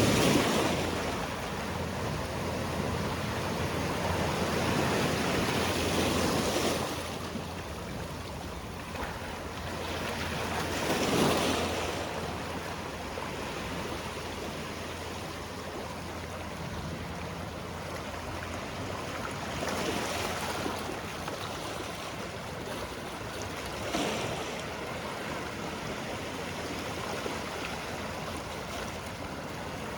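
Sea waves washing onto a rocky shore: a steady wash of surf with swells breaking at the start, again about eleven seconds in, and more softly twice near the end.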